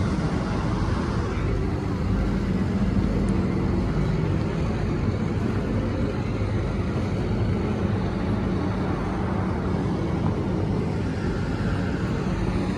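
Truck engine running steadily with a low rumble and a faint held hum.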